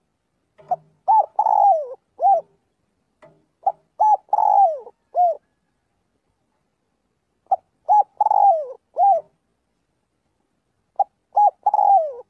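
Spotted dove cooing: phrases of a few short coos ending in a longer, falling coo, repeated about every three and a half seconds, four times.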